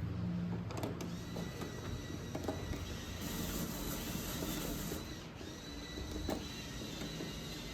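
Small motorized mechanism running with a steady high whine, with scattered mechanical clicks and a low rumble beneath.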